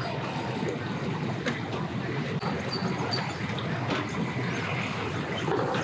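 Boat engine running at low speed, a steady rumbling drone.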